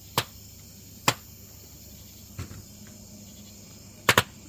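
Sharp pops from an old laser disc player's circuit board burning in a burn barrel: a single pop just after the start, another about a second in, a fainter one midway and a quick pair near the end. The burner suspects the popping is capacitors bursting in the heat.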